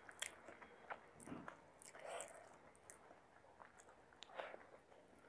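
Faint close-miked mouth sounds of chicken biryani being eaten by hand: soft chewing with scattered sharp lip smacks and clicks.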